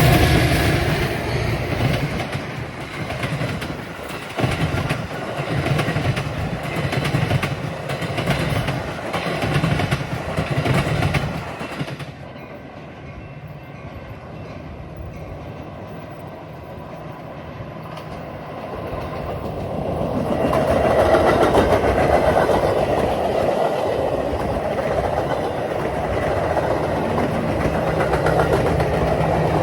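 A train passing, its wheels clacking in an even rhythm over the rail joints. The sound drops away about twelve seconds in and swells again from about twenty seconds.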